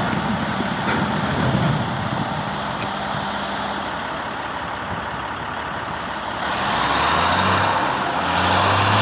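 Dump truck's diesel engine running, a rough steady rumble with hiss. About six and a half seconds in it gets louder and brighter, and near the end a steady beep starts.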